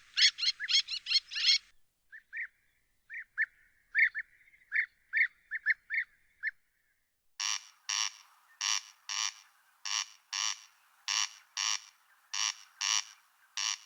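Songbirds singing densely, thinning after about two seconds to a few short calls. Then, about seven seconds in, a harsh rasping call starts repeating in pairs, roughly a pair every second.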